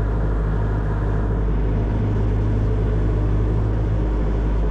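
Excavator's diesel engine running at a steady pace, a constant low rumble.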